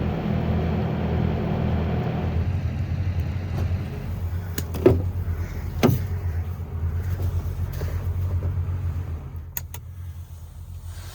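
Truck engine running with a steady low hum, heard from the cab, with two sharp knocks about five and six seconds in.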